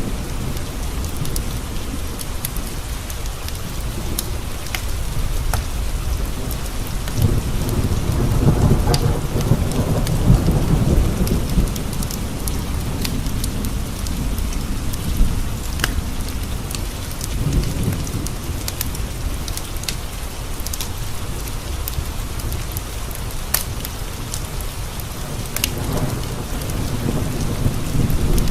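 Steady rain on window panes with thunder rumbling, swelling a few seconds in and rolling for several seconds, then rumbling again more briefly twice. Scattered sharp crackles of a wood fire in a fireplace sound over the rain.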